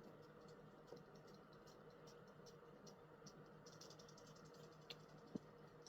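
Near silence: faint room tone with a low steady hum, a soft rapid ticking about four or five times a second, and two small clicks near the end.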